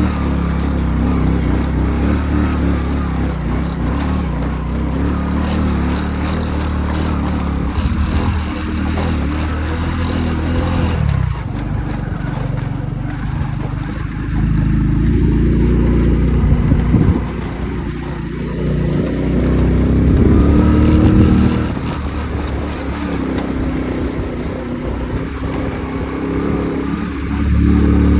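Motorcycle engine running while riding, its speed and loudness rising and falling several times.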